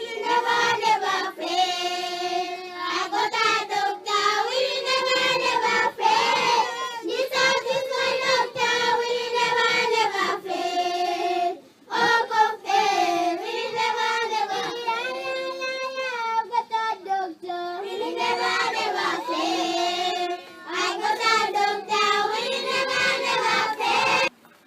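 Children singing together, voices holding long sung notes with short breaks between phrases; the singing cuts off abruptly near the end.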